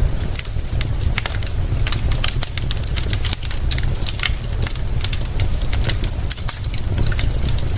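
Wood fire crackling, with many irregular sharp pops and snaps over a faint hiss of rain and a steady low rumble.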